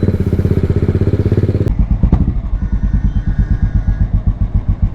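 BMW motorcycle engine running through a loud exhaust, first with fast, even firing pulses. About a second and a half in it changes abruptly to a slower idle with distinct, evenly spaced exhaust pulses.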